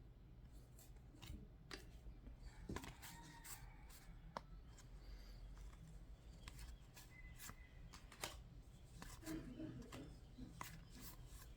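Faint, scattered sharp clicks and light rustles of trading cards being handled and flipped through, over a low steady room hum.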